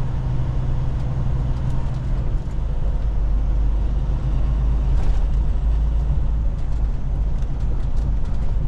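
Semi truck's engine running with a steady low rumble, heard from inside the cab.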